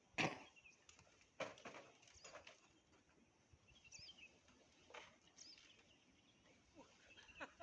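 Quiet ambience with a few faint, short bird chirps, broken by occasional brief knocks, the loudest right at the start and another about a second and a half in.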